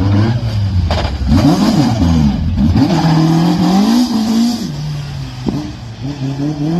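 Classic Mini rally car's engine revving hard, its pitch rising under acceleration and dropping back at each gear change, with a sharp click about five and a half seconds in.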